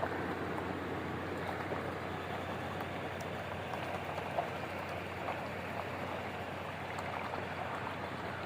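Steady rush of flooding river water, with a few small splashes and ticks.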